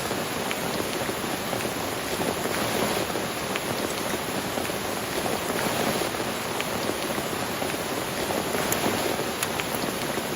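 Heavy rain falling steadily: a dense, even patter with scattered sharper drop hits.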